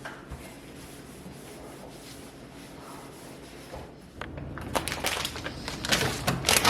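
Rubbing and scraping of household items being wiped and handled, low at first. From about two-thirds of the way in it turns into a busier run of clicks, knocks and clatter as things are moved about.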